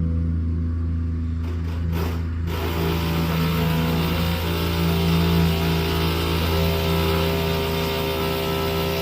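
Construction machinery's engine running steadily with a low hum. About two and a half seconds in, a louder hissing, whining machine sound joins it and continues.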